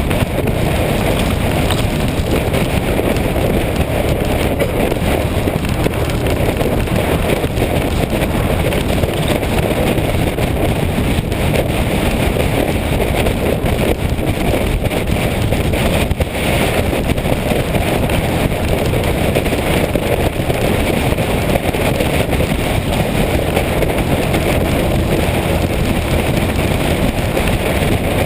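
Motorcycle running at steady road speed, with wind rushing over the microphone and covering much of the engine.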